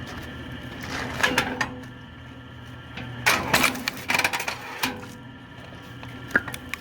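KM Grand SF-10 belt-driven log splitter, its 1500 W electric motor running with a steady hum, while oak logs split with bursts of cracking and knocking about a second in and from about three to five seconds in, and a single sharp crack near the end.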